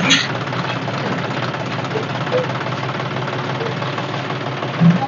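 Tractor diesel engine idling steadily with a regular rattling knock.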